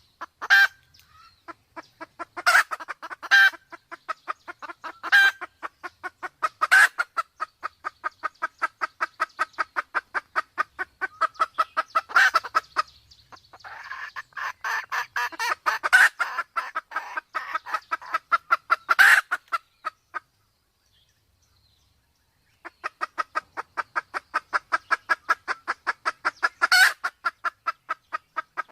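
Red junglefowl, Sumatran birds: a fast, even run of clucks, several a second, with a louder sharp note every few seconds. The run breaks off for about two seconds a little past two-thirds through, then starts again. It is the clucking of a hen in breeding condition, used as a hunting lure call.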